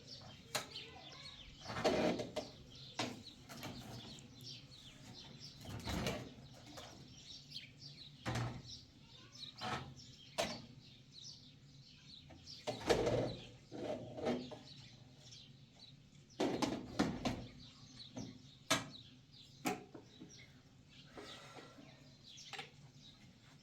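Irregular knocks and clatter, a dozen or so scattered sharp hits, with faint bird chirping.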